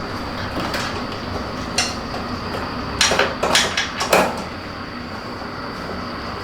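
Metal tools and scooter parts clinking and clattering as the scooter is taken apart: a couple of single clicks, then a burst of clanks and rattles about three to four seconds in, over a steady background hum.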